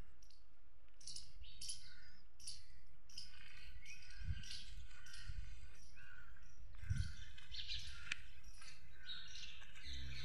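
Small birds chirping, many short calls a second from several birds, with a couple of brief low bumps.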